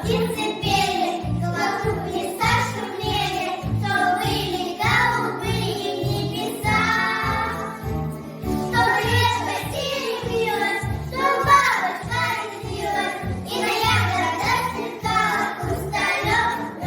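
A group of young children singing a song together over a backing track with a steady beat.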